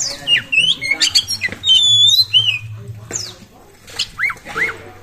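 Oriental magpie-robin (kacer) singing an energetic, varied song of quick whistles, rising and falling sweeps and harsh notes, loudest about two seconds in, over a faint low steady hum.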